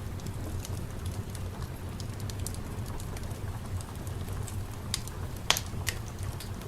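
Fireplace crackling: scattered sharp pops over a steady low rumble, the loudest pop about five and a half seconds in.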